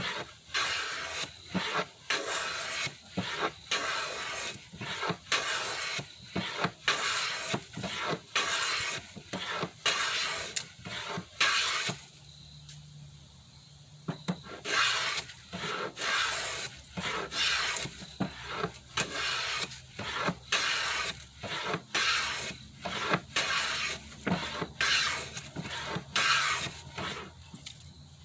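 Hand plane set to a very light cut taking repeated smoothing strokes along a wooden rail, about one to two strokes a second, with a short pause about twelve seconds in.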